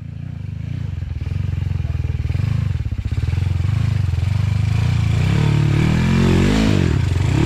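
Dirt bike engine running, growing louder over the first few seconds, then revving up and down a few times near the end.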